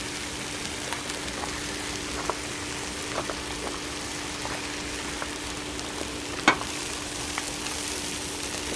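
Wood fire burning in a fire brazier, hissing steadily with scattered small pops and one sharp crack about six and a half seconds in.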